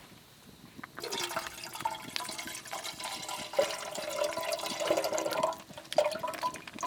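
Water pouring and splashing into a container, starting suddenly about a second in, with a short break near the end.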